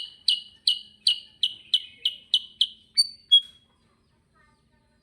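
Kutilang sutra bulbul calling: a fast, even run of short identical chirps, about three a second, ending with two clear whistled notes.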